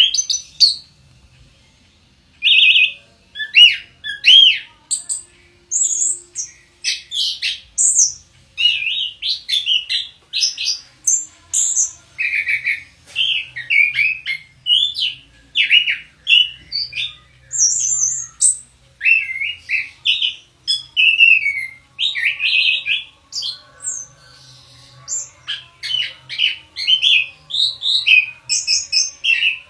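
Orange-headed thrush singing a long, varied song of rapid whistled and chattering phrases, one after another with only short gaps.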